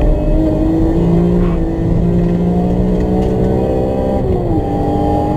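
BMW E46 M3's straight-six engine pulling hard under acceleration, heard from inside the cabin. Its pitch climbs steadily, then drops sharply about four seconds in as the driver shifts up a gear, and starts rising again.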